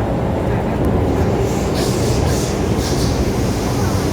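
Metro-Cammell M-train electric multiple unit running on the line, with a steady low rumble. A few short higher-pitched patches of sound come in the middle.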